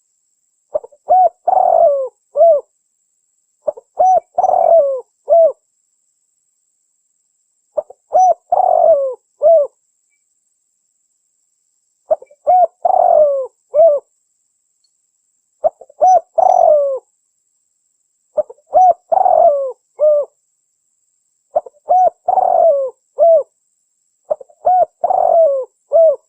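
Spotted dove (tekukur) cooing: the same phrase of several short coos repeats eight times, one every three to four seconds, with dead silence between. It is a lure call recording used to draw in doves.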